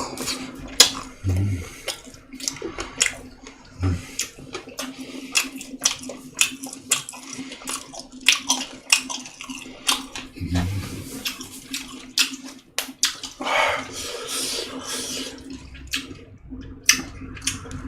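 Close-up wet chewing and lip-smacking of a person eating fermented skate and boiled pork wraps, a quick string of sharp mouth clicks and smacks. A steady low hum runs underneath.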